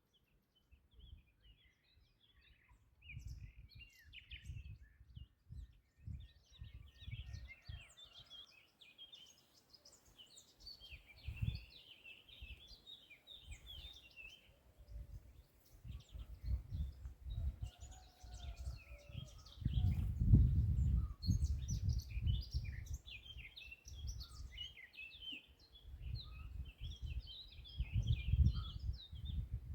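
Several songbirds chirping and singing, short quick notes overlapping through most of the stretch. Underneath runs an irregular low rumble that swells loudest about twenty seconds in and again near the end.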